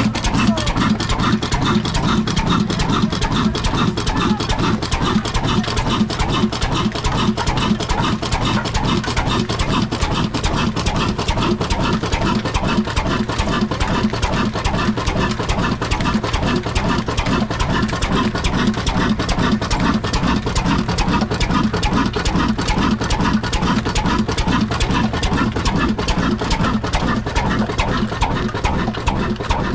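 Old Ruston double-flywheel diesel engine running steadily with a fast, even beat, driving a floor flour-mill (chakki).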